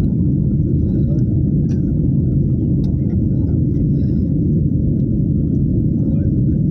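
Steady low rumble of a jet airliner's engines and airflow, heard from inside the passenger cabin during the landing approach.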